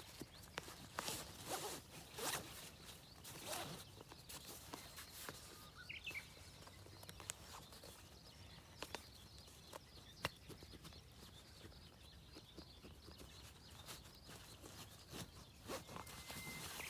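Faint zipping and rustling of fabric camping gear being handled, in a few short swishes with scattered small clicks.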